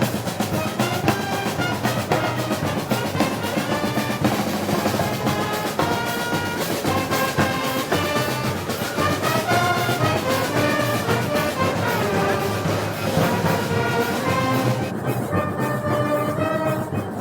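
A Spanish festival band, brass and percussion together, playing march music with a steady beat. The highest percussion drops out for a moment near the end.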